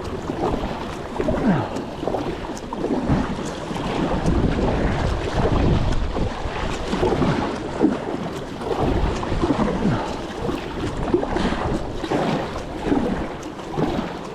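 Wind buffeting the microphone over water sloshing and splashing around a kayak being paddled against a river current.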